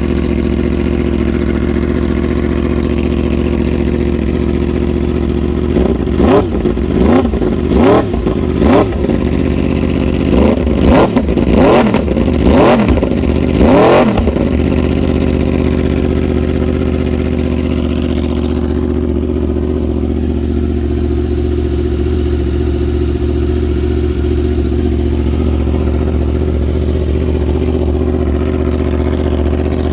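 2015 Yamaha R1's crossplane inline-four engine through an SC Project CR-T full titanium short exhaust, idling steadily. From about six seconds in it is revved in a string of quick throttle blips, each a sharp rise and fall in pitch, for about eight seconds, then it settles back to a steady idle.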